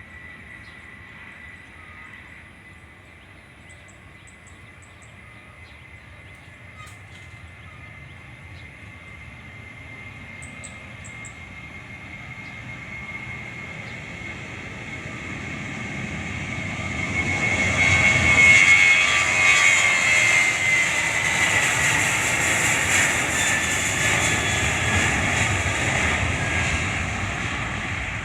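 Jet airliner's engines growing steadily louder as it approaches, passing at full volume about eighteen seconds in, then slowly fading. A high whine runs through it and drops in pitch as the aircraft goes by.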